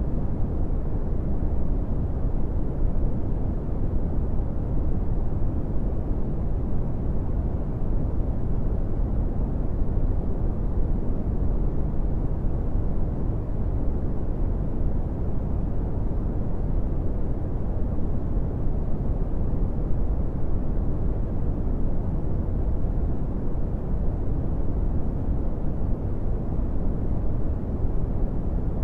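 Brown noise: a steady, deep rumbling hiss, strongest in the bass and fading off toward the treble, with no changes.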